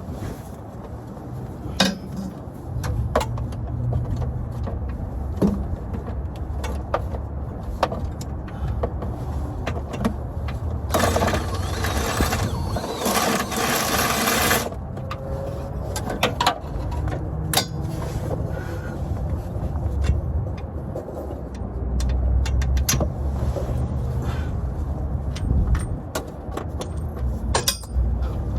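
Wind buffeting the microphone with a constant low rumble, under scattered sharp metallic clicks and clinks of hand tools on bolts. About eleven seconds in there is a louder, steady noisy burst lasting about three and a half seconds.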